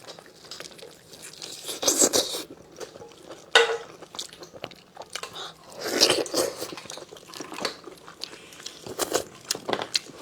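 Close-miked chewing and biting of braised lamb chops: wet mouth sounds and crunches in irregular bursts, with a sharp click a few seconds in.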